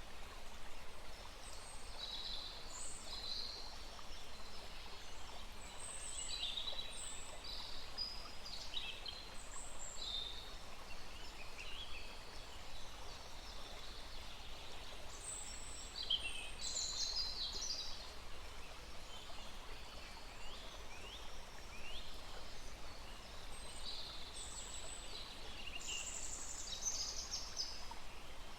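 Several songbirds calling and singing in short chirps and trills throughout, over the steady rush of a small stream.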